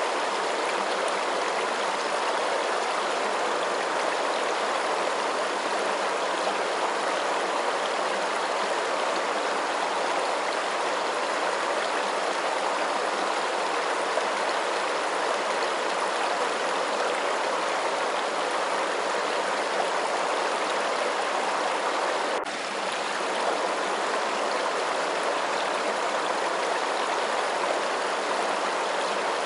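Steady rushing of running water, an even continuous flow with no changes in character. There is a brief dip in level about three-quarters of the way through.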